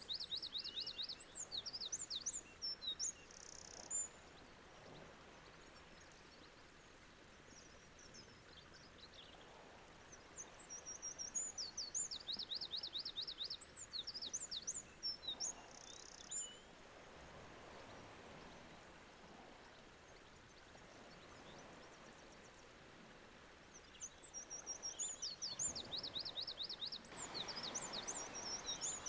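A small songbird singing, with three bursts of quick, high, repeated notes and quiet pauses between them.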